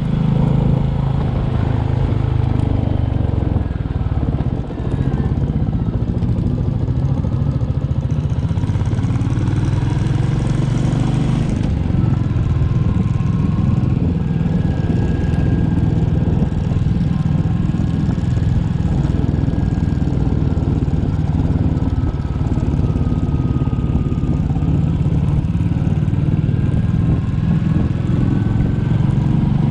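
Royal Enfield Classic 350's single-cylinder engine running steadily while the motorcycle is ridden, with a brief dip in level about four and a half seconds in.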